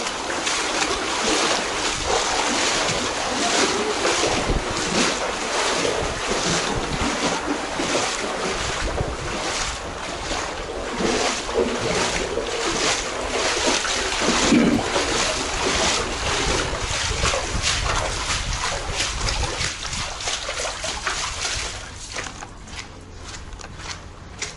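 Floodwater splashing and sloshing in a quick, even rhythm of about two or three splashes a second, with wind on the microphone; it gets quieter near the end.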